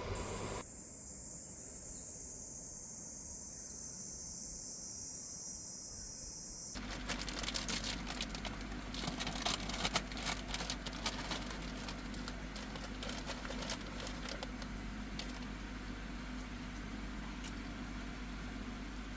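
A steady low mechanical hum. It sets in about seven seconds in, with a scatter of clicks and knocks over the next few seconds.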